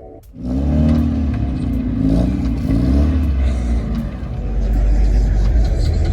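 A car engine revving up and down over a deep low rumble. It starts suddenly about half a second in.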